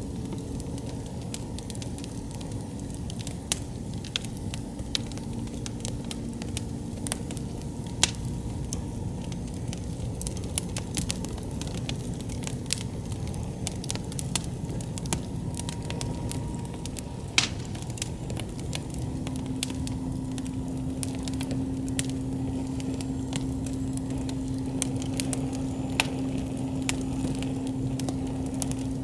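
Wood campfire burning: a steady low rush of flames with scattered sharp pops and crackles from the burning wood, and a couple of louder snaps about 8 and 17 seconds in.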